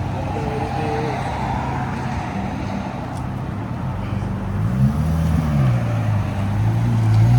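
Ford F-150 5.0 V8 exhaust with the muffler and resonator deleted, running at a steady low drone. It revs up and falls back once about two-thirds of the way in, then drones louder near the end.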